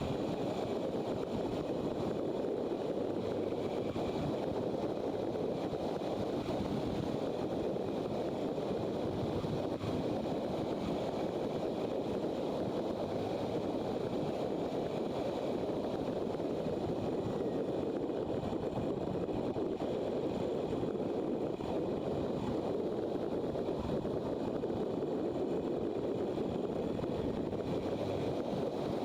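Steady wind rush over the microphone, mixed with the motorcycle's running engine and road noise, while riding at a constant pace.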